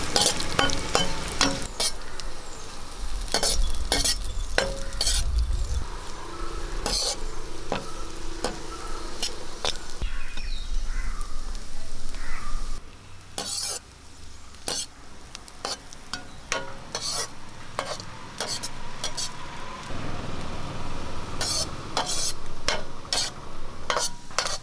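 Food sizzling in ghee in a pan while a spoon stirs it, with repeated knocks and scrapes of the spoon against the pan. The sizzle and knocking get quieter about halfway through.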